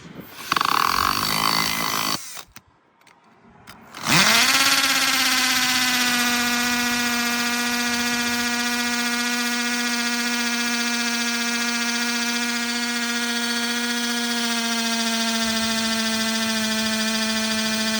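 Cordless drill set to hammer mode, used as a makeshift concrete vibrator to settle fresh concrete. It runs briefly and stops, then spins up about four seconds in and runs at a steady high-pitched whine.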